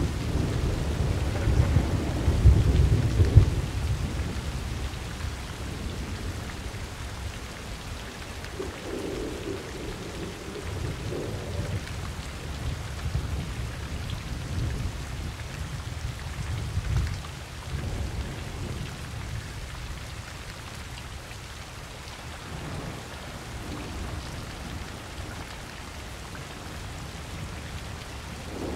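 Thunderstorm: steady rain falling with deep rolling thunder. A heavy rumble of thunder peaks in the first few seconds and dies away into lower, smaller rolls, one swelling briefly about two-thirds of the way through, while the rain keeps up.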